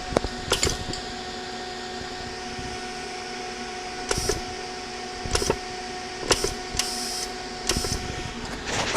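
Cooling fans of an Everlast 185 DV TIG welder running with a steady hum, which the owner finds a little noisy. Short bursts of noise break in about seven times.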